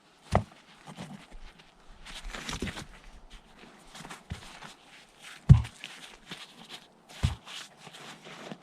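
A few dull thumps at uneven intervals, the loudest about halfway through, with scuffing and rustling in between.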